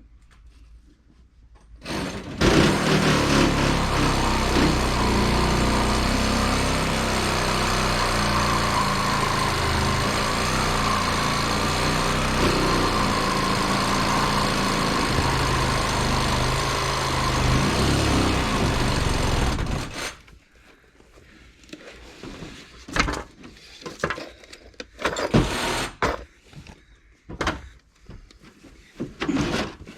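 A motor-driven tool starts about two seconds in, runs loud and steady for about seventeen seconds, and cuts off abruptly. Scattered knocks and clicks follow.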